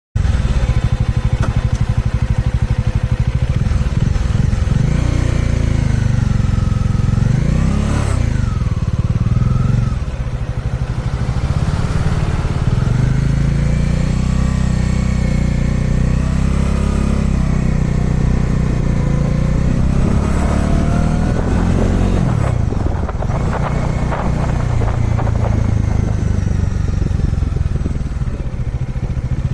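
Kawasaki Dominar 400 single-cylinder motorcycle engine running and revving, its pitch rising and falling several times.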